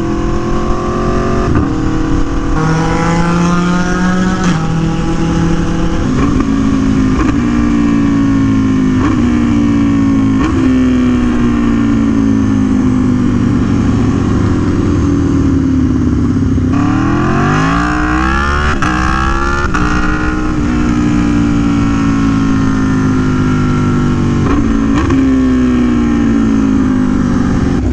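Aprilia Tuono V4 1100 Factory's V4 engine through an SC Project CR-T exhaust, heard from the rider: the engine winds down as the bike slows, its pitch jumping back up at each downshift, then climbs hard under acceleration about two-thirds of the way in before falling off again.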